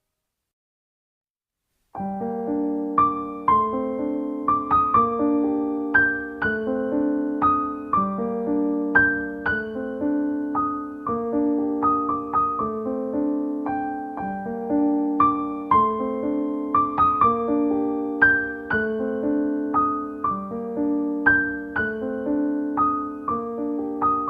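Background piano music that starts about two seconds in after a short silence, playing a gently repeating pattern of broken chords.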